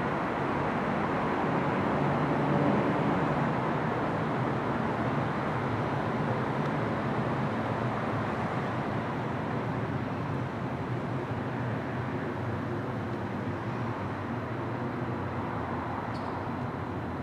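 Steady low rumble and hum of an electric SBB double-deck commuter train drawing slowly into a station platform, under a railway station's background noise.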